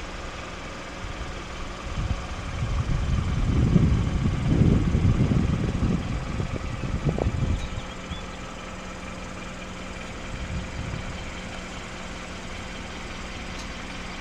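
Wind buffeting the microphone in gusts for several seconds near the start, over a steady low hum and hiss.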